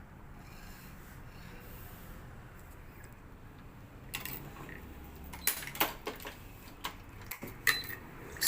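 Sharp clicks and ticks of badminton racket stringing work on a stringing machine: string and clamps handled against the frame. They start about halfway through and come several times, irregularly, over a low steady hum.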